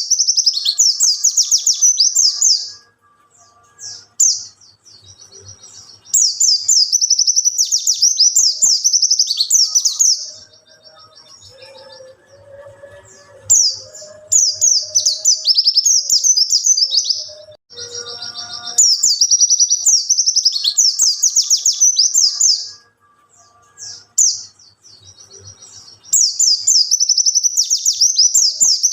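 White-eye (pleci) singing: bouts of rapid, high twittering a few seconds long, five in all, separated by short pauses.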